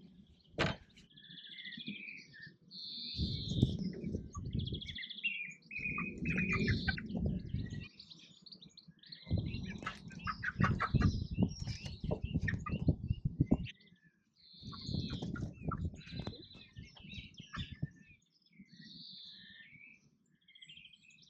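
Young chickens cheeping again and again as they are handled and put into a coop, with several bursts of rustling and bumping from the handling and a few flaps of wings.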